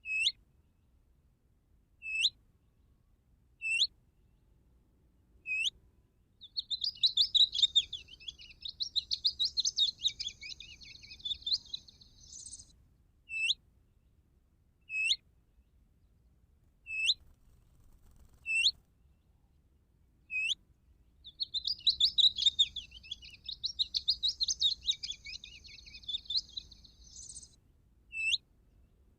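Looped recording of a songbird played through a bird caller: short sharp call notes that hook upward, about every second and a half, alternating with two long scratchy warbling song phrases of about six seconds each.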